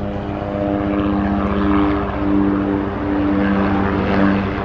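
Helicopter passing overhead: a fast rotor chop under a steady engine drone, loudest late on and just starting to fade.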